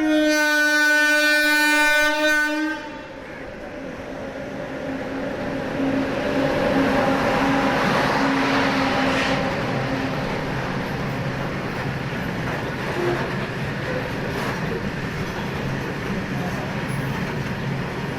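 Train horn sounding one long blast that cuts off about three seconds in. A goods train then runs past, its rumble and wheel noise swelling and holding steady.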